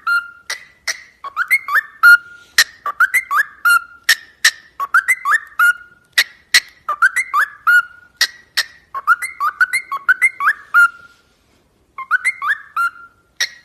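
Parrot whistling a short phrase over and over, roughly once a second, with sharp clicks between the phrases. Each phrase is a few quick rising notes ending on a held note, and there is a brief pause near the end.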